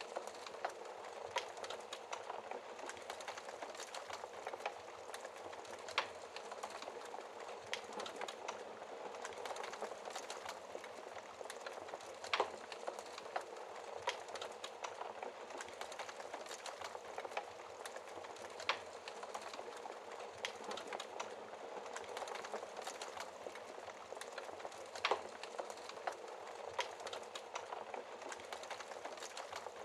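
Wood fire crackling in a fireplace: a steady hiss of burning with irregular snaps and a handful of louder pops.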